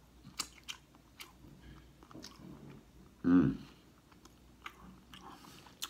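A man chewing seafood close to the microphone: wet mouth smacks and clicks scattered through, with a short voiced hum about three seconds in.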